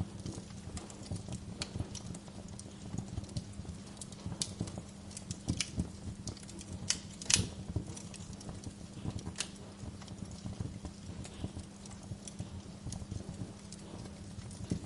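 Wood fire crackling in a fireplace: irregular sharp pops and snaps over a low steady rumble, with the loudest pop about halfway through.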